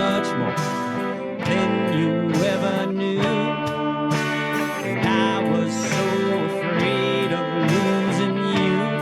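Guitar-led instrumental break in a country-style song: plucked guitar notes, some bending in pitch, over a steady backing.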